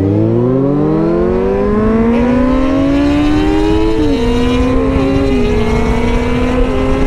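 Motorcycle engine, a 2007 Kawasaki Z1000's inline-four, pulling away with its pitch climbing steadily for about four seconds. It then shifts up several times, the pitch dropping at each change.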